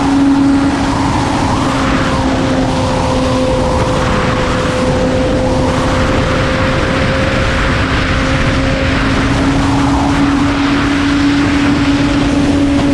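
BMW S1000RR sport motorcycle with an Arrow exhaust, its engine running at fairly steady high revs under way, with rushing wind noise.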